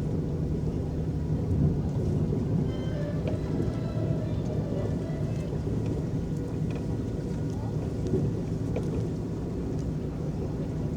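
Electric tour boat moving across a lake: a steady low rumble of its motor and the water churning, with faint distant voices or music about three seconds in.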